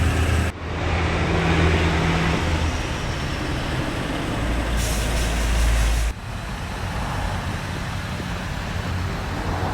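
Steady outdoor vehicle noise: a low rumble and hiss. The level changes abruptly twice, about half a second in and about six seconds in.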